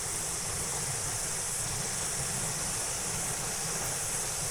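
Cicadas singing steadily in the forest trees, heard as a constant high-pitched hiss, with a low rumble on the microphone beneath it.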